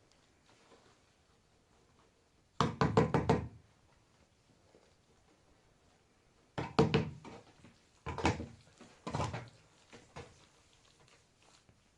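Bursts of rapid knocking: a quick run of about five knocks, then after a pause another run followed by two shorter groups of knocks and a last faint one.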